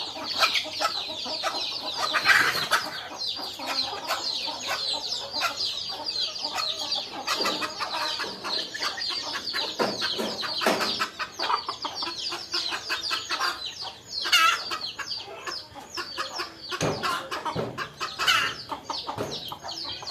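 A flock of baby chicks cheeping continuously, many high-pitched peeps overlapping, with a few louder calls standing out now and then.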